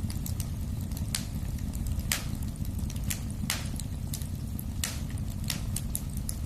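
Wood fire burning in a fireplace: a steady low rumble of flame with sharp crackles and pops about once a second and fainter ticks in between.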